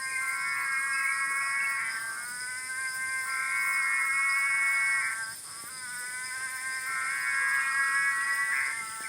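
A dense chorus of frogs, many overlapping steady high-pitched calls that swell and fade every few seconds, over a continuous high-pitched insect drone.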